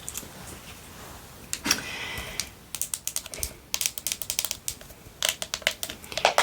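Long fingernails tapping quickly on a hard object: a rapid run of sharp clicks that thickens from about three seconds in.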